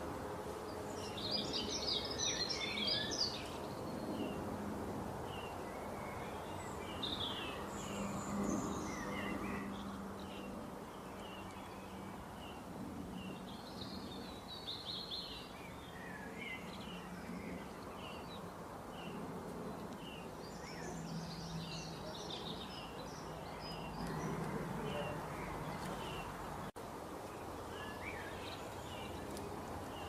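Small birds chirping and singing in short scattered phrases, most busily in the first few seconds, over a steady background hiss and a faint low hum.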